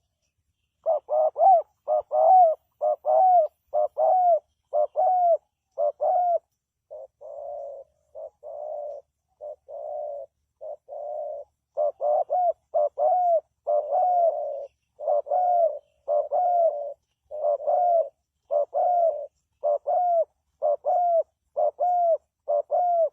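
Spotted dove cooing: a long run of short, arching coos in quick succession. The coos turn softer and lower for a few seconds in the middle, then come back loud.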